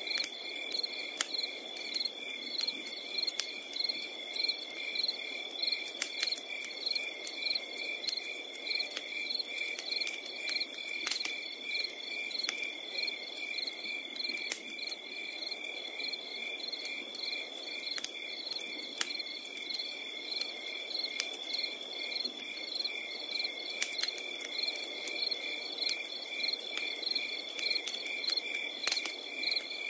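Crickets chirping in a steady, regular pulse over a continuous high trill, with occasional sharp crackles from a campfire.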